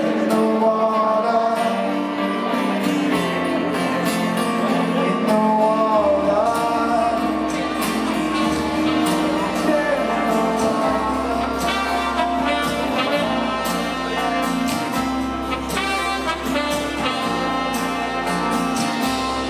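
Live rock band playing an instrumental passage between vocal lines, with a sustained melody over a shifting bass line and regular drum and cymbal hits.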